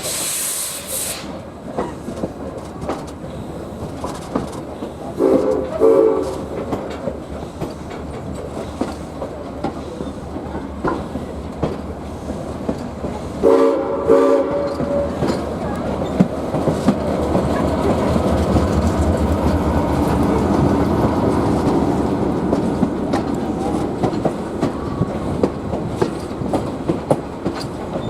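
Train ride behind Baldwin 2-6-2 steam locomotive Ventura County Railway No. 2. A hiss of steam cuts off about a second in, then the coach's wheels rumble and click over the rail joints, growing louder past the middle. The locomotive's steam whistle sounds in short blasts about five seconds in and again about thirteen seconds in.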